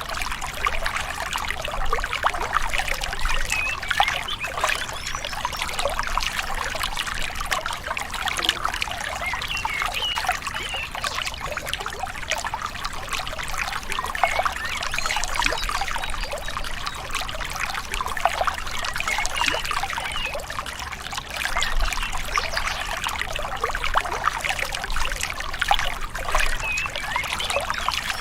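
A gentle river babbling and trickling steadily, full of small splashes.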